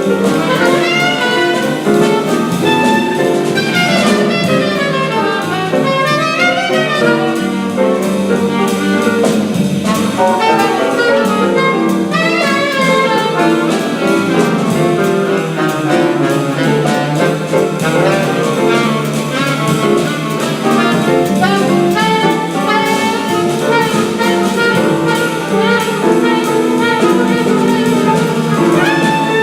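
Live jazz combo playing: a saxophone carries fast, running melodic lines over piano and drum-kit accompaniment.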